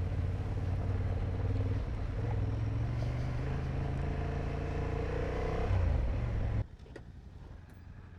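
Motorcycle engine running under way, heard from the bike with road and wind noise; its pitch climbs as it accelerates a few seconds in. About two thirds of the way through it cuts off suddenly to a much quieter background.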